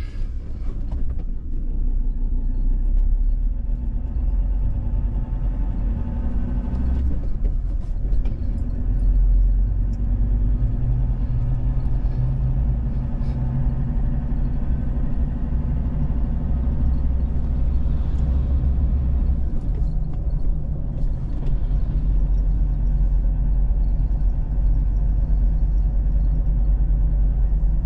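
A vehicle driving along a road: a steady low rumble of engine and tyres, with a few faint knocks.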